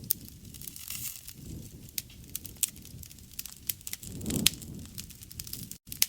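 Wood fire crackling: sharp, irregular pops and snaps over a low rumble of burning flames, which swells briefly about four seconds in. A momentary cut-out in the sound comes just before the end.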